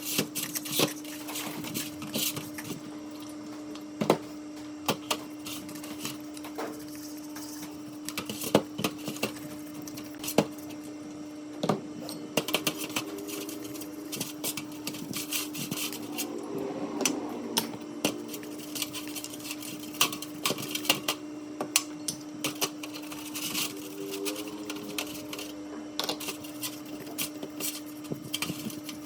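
Irregular clinks and taps of small metal parts being handled and worked on a bench, over a steady hum.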